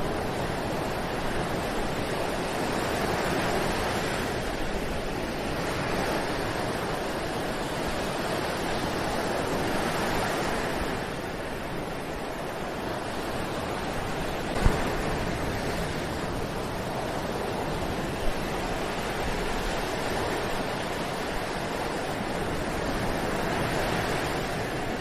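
Ocean surf: waves breaking and washing on a beach in a steady rushing hiss that swells and ebbs every few seconds. One brief low thump comes about halfway through.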